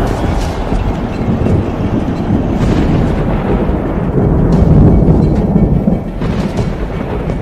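Loud, deep rumbling sound effect that swells about five seconds in, over dramatic music.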